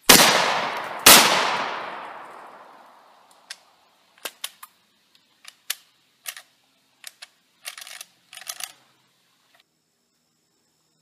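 Two 12-gauge shotgun blasts about a second apart, each with a long echoing tail, followed by scattered short clicks and clacks over several seconds.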